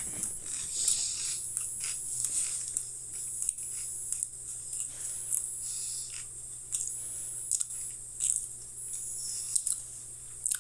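Someone chewing and crunching Pringles potato crisps, with irregular crisp crunches over a steady low hum.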